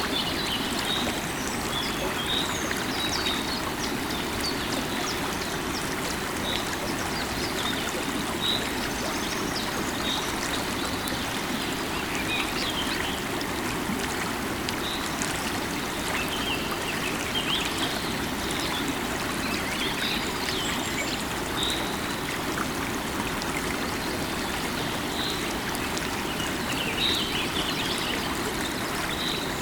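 River water flowing steadily over rocks, with birds chirping and whistling on and off throughout.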